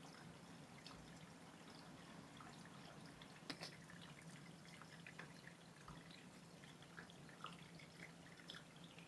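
Near silence: quiet room tone with faint, scattered small ticks and drips, and one sharper click about three and a half seconds in.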